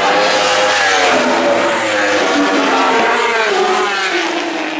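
Superbike racing motorcycles going past at race speed, engines revving hard with the pitch rising and falling through gear changes. The loudest part is in the first three seconds, and the pitch drops away near the end as the bikes pass.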